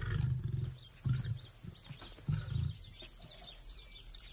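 Lion giving three deep, rasping grunts about a second apart, with small birds chirping behind in the second half.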